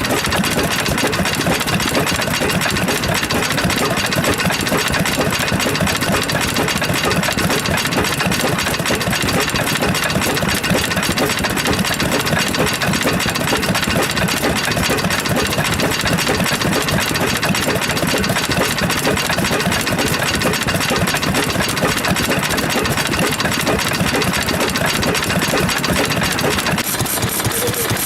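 Vintage stationary engines running steadily, with a fast, even stream of firing knocks.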